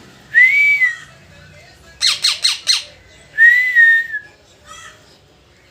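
Parrot calling: two loud arched whistling calls with a quick run of four or five sharp chirps between them, then a faint short call near the end.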